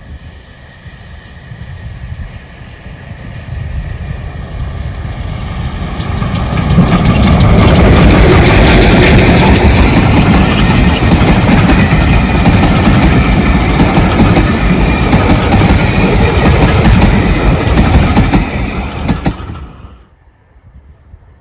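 Train passing close by: it grows louder over several seconds, then its wheels click rapidly over the rail joints as the train goes past, and the sound cuts off abruptly near the end.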